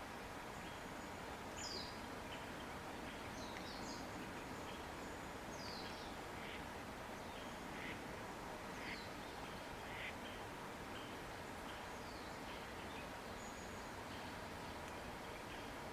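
Steady rush of a river with scattered bird calls over it: quick high falling whistles and short chirps every second or two.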